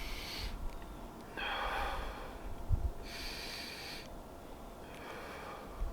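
A person sitting in a cold plunge takes slow, heavy breaths against the cold: four long breaths, about a second and a half apart.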